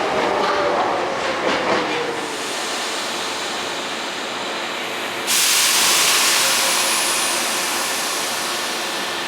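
Hankyu electric train: the whine of its running gear falls in pitch over the first two seconds, with a quick run of wheel clacks over rail joints. About five seconds in, a sudden loud hiss of compressed air sets in and slowly fades.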